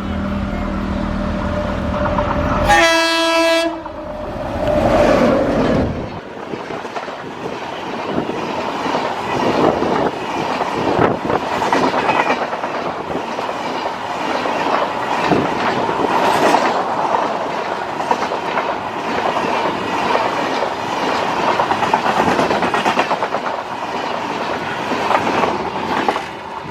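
Indian Railways train passing close by. Its horn sounds once for about a second, about three seconds in, over the low hum of the locomotive. From about six seconds on the coaches run past with a fast clickety-clack of wheels over the rail joints.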